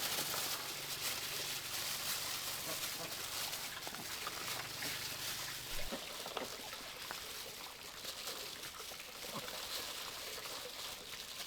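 Steady trickle of running water, with small handling noises and a faint low hum that stops about six seconds in.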